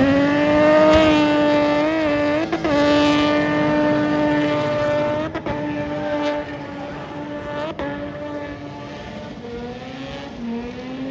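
Car engine held at high, steady revs, its note dipping briefly a few times, then easing down and climbing again near the end.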